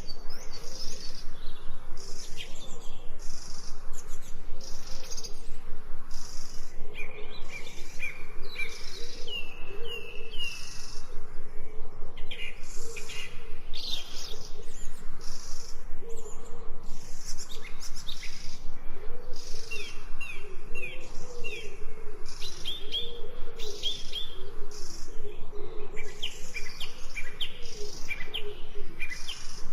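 Forest birds chirping and singing: bright, quick falling chirps and lower warbling calls, over an even run of high, hissy pulses a few times a second.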